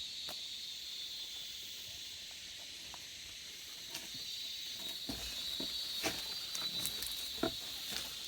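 Steady high-pitched insect drone, with scattered light clicks and knocks joining about halfway through.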